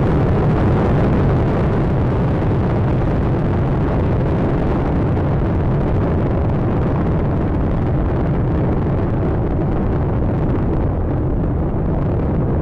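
Space Shuttle Atlantis's rocket motors during ascent, a loud, steady deep rumble of exhaust noise with no pauses. The higher hiss thins out over the last few seconds as the vehicle climbs away.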